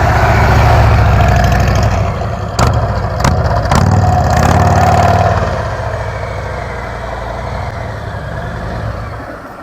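Motorcycle engine running at low speed during slow stop-and-go riding, with three sharp clicks around the middle. The engine sound then fades away over the last few seconds as the bike moves off.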